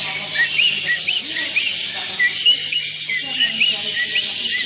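Many small cage birds chirping together: short rising chirps, several a second, over a dense high chatter of other birds.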